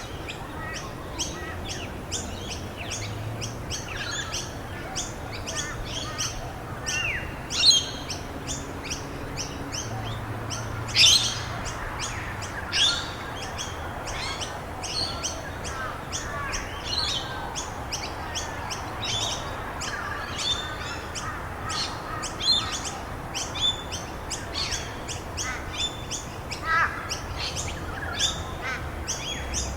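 A chorus of wild birds chirping rapidly and continuously, many short high notes overlapping, with a couple of louder sweeping calls about 8 and 11 seconds in, over a steady background hiss.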